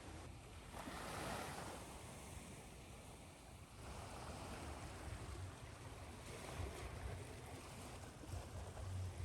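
Ocean waves washing onto a shore, with a wave surging in about a second in, mixed with a steady hiss of white noise.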